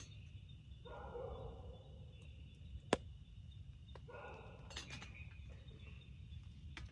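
Night forest ambience: an animal call lasting about a second repeats twice, about three seconds apart, over a steady high drone and a low rumble. A single sharp click near the middle is the loudest sound.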